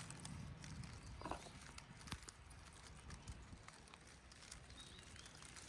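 Faint outdoor ambience: a low rumble with scattered small clicks and taps, and two short, faint high chirps near the end.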